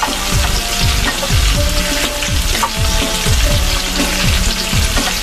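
Liver, onions and bacon sizzling in hot fat in a frying pan, a steady crackling hiss. Background music with a regular thumping bass beat plays over it.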